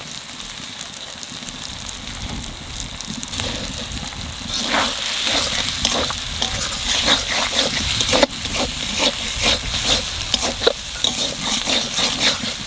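Tomato and spice masala sizzling in hot oil in a metal kadai while a spatula stirs and scrapes it around the pan. The scraping strokes grow louder and more frequent about four and a half seconds in.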